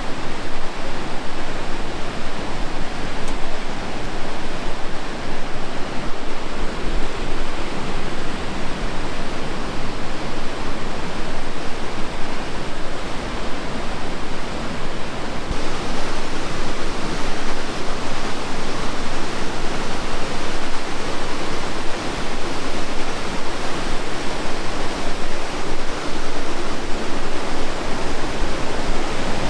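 Loud, steady rush of falling water from a waterfall or rapids on the Tallulah River. The hiss brightens slightly about halfway through.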